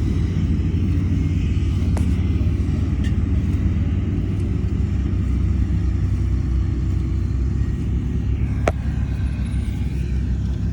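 Heavy diesel earthmoving machinery running steadily with a deep rumble. Two sharp knocks cut through it, a faint one about two seconds in and a louder one near the end.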